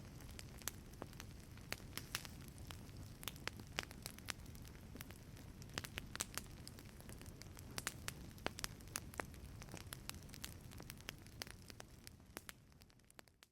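Wood fire in a fireplace crackling, with frequent sharp pops and snaps of varying loudness over a low steady rumble. The sound fades out near the end.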